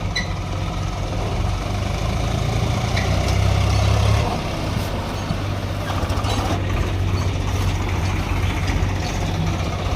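Heavy diesel engine running steadily, swelling louder for about a second around three seconds in before settling back.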